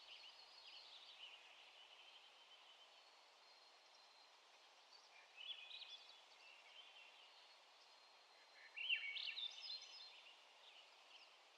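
A songbird sings two short phrases of quick high notes, one about five seconds in and a louder one near nine seconds, over the faint steady rush of a creek.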